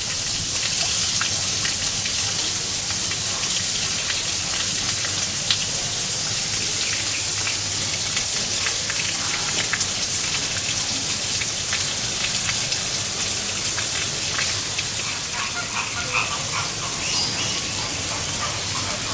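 Falling water pattering steadily, with many small ticks of drops.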